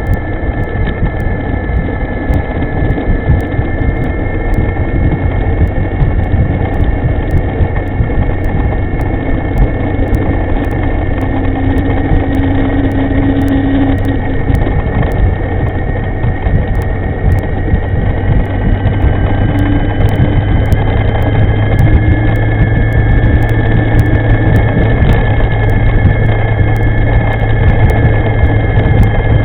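Electric scooter riding along: wind rushing over the microphone with the motor's steady high whine, which rises in pitch about two-thirds of the way through as the scooter speeds up.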